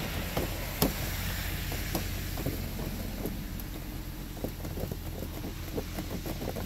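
Loose plastic engine undercover (under-engine splash shield) rattling as it is shaken: a run of irregular small clicks and knocks, the loudest about a second in, over a steady low hum. The rattle is a sign that its clips or fasteners have come loose.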